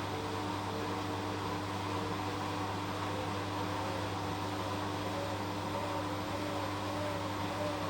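Washing machine running: a steady motor hum with a whine that wavers in pitch about twice a second and creeps slightly higher as the drum turns.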